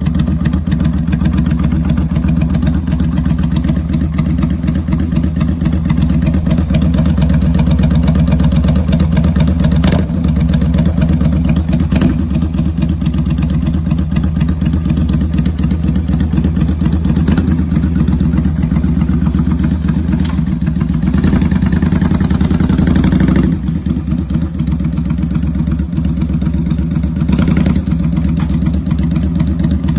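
Kaisar Ruby 250 motorcycle with a loud aftermarket exhaust, idling steadily just after a cold start. The engine note swells slightly for a couple of seconds around twenty seconds in and again near the end.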